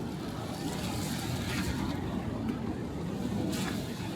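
Steady low rumble of typhoon wind and rain in a city street, with a couple of short hissing swells.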